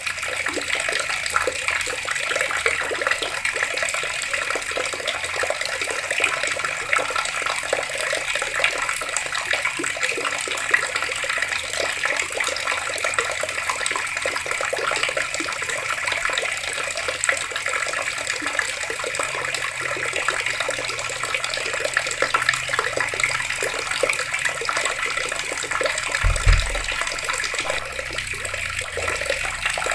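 Water running steadily from taps, an even rush of falling water. A brief low thump comes a little before the end.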